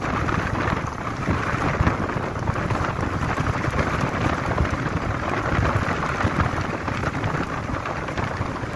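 Strong storm wind blowing hard and buffeting the microphone: a continuous rushing noise with a low rumble, rising and falling slightly in strength.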